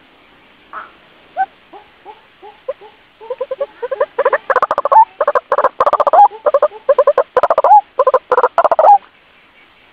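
White-breasted waterhen calling, a recorded lure call: a few spaced single notes, then a fast series of loud repeated calls from about three seconds in that stops about a second before the end.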